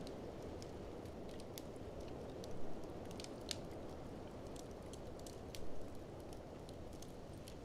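Wood fire crackling in a fireplace, irregular sharp pops and snaps over a steady low rush, with two brief louder swells.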